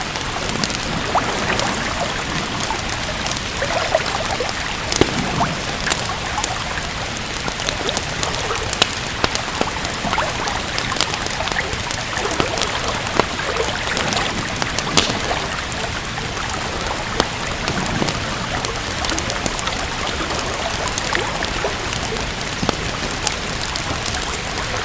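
Steady rain together with a crackling wood fire: an even hiss of rain under frequent short, sharp pops and snaps from the burning wood.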